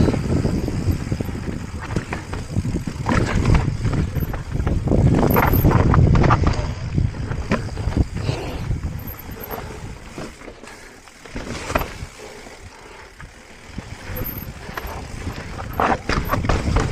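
Mountain bike (a 2024 Transition Patrol Alloy) descending a dirt trail: tyres rolling over dirt and rocks, with the chain and frame rattling and knocking over bumps, and wind rumbling on the action camera's microphone. It eases off for a few seconds past the middle and picks up again near the end.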